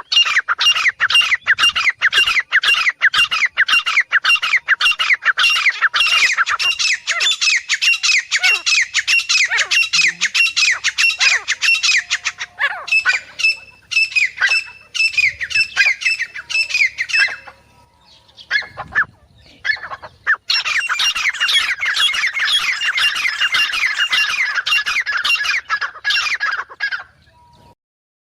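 Female grey francolin calling, the kind of call used as a hunting lure: a fast run of harsh, repeated notes, each sweeping downward, several a second. The run breaks up into scattered notes about twelve seconds in, stops briefly, then comes back as a second fast run that ends shortly before the close.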